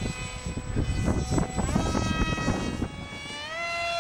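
Small electric motor and propeller of a radio-control foam park jet whining in flight. Its pitch holds steady, then climbs about three seconds in as the throttle opens. Gusty wind buffets the microphone with a low rumble through the first part.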